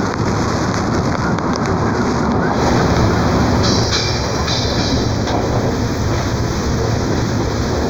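Chepe passenger train running in heavy rain, heard from an open car window: a steady, loud din of wheels on rail, rushing air and rain.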